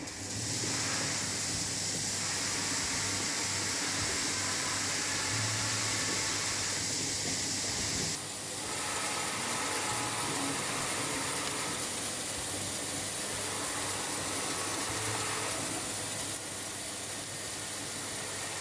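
Automatic rice packing machine running: a steady low machine hum with a loud hiss over it that cuts off about eight seconds in, the hum going on after.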